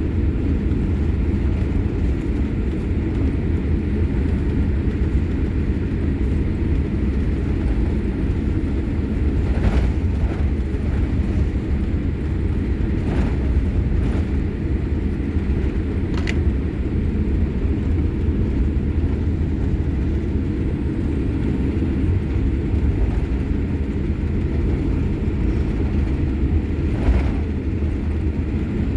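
Steady low rumble inside the cabin of a Boeing 787-8 taxiing, from the engines at idle and the wheels rolling on the pavement, with a few faint knocks now and then.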